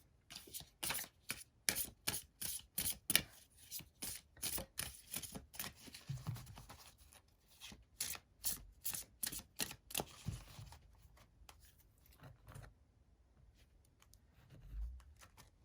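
A deck of tarot cards being shuffled by hand: quick papery slaps and riffles at about two a second for roughly ten seconds, then thinning out and stopping.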